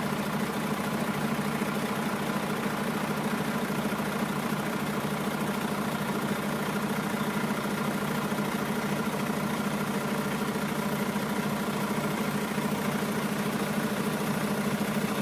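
A motor or engine running steadily with an even, unchanging hum.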